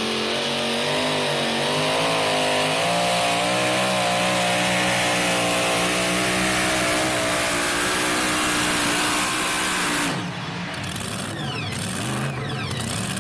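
Truck-pulling truck's engine at full throttle under load down the track, its pitch climbing at first and then held high and steady. About ten seconds in the throttle drops off and the engine falls back to a lower, uneven run as the pull ends.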